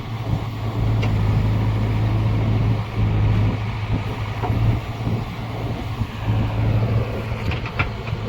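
Heavy diesel engine running steadily with a low hum. A few short clicks sound near the end.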